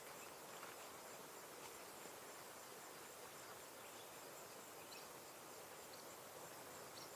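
Faint outdoor ambience: a steady, high insect trill over an even hiss, with a few brief faint chirps toward the end.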